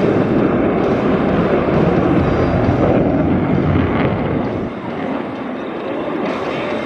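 Boeing F/A-18 Super Hornet's twin jet engines sounding loud and steady as it flies a tight, minimum-radius turn, easing off slightly about four and a half seconds in.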